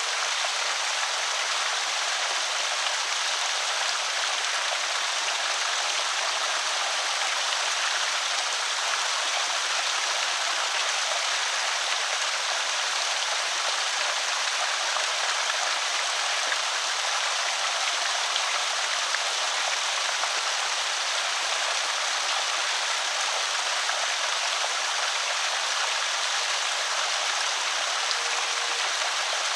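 Creek water spilling over a small spillway: a steady, even rush of splashing water, mostly high and hissy with no deep rumble.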